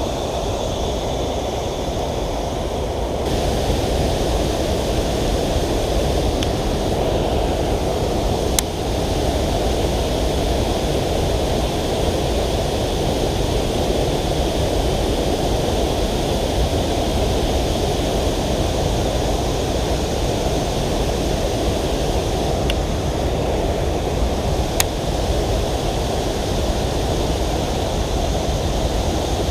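Creek water rushing steadily over rocks at a small waterfall, a little louder about three seconds in. Two brief sharp clicks stand out, one about nine seconds in and one near the end.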